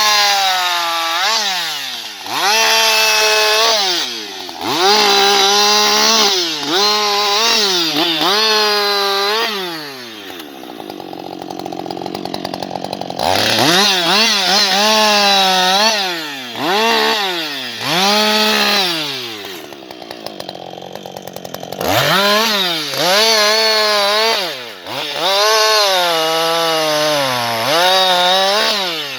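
Husqvarna 560XP chainsaw's two-stroke engine throttled up to full speed and let back down over and over, in rises of one to several seconds, falling back to a low idle twice, about ten seconds in and again near twenty seconds.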